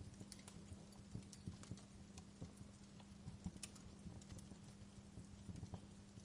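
Wood fire in a fireplace crackling softly, with irregular sharp pops and snaps over a faint steady low hum.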